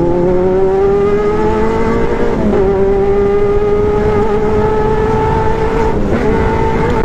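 Sport motorcycle engine held at high revs, its pitch climbing slowly, with brief breaks in the tone about two seconds in and again near the end.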